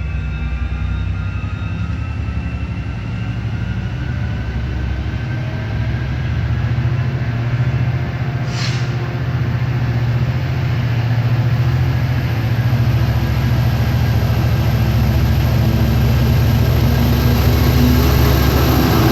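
Exo commuter train's diesel locomotive running with a steady low drone that slowly grows louder. A short hiss comes about nine seconds in.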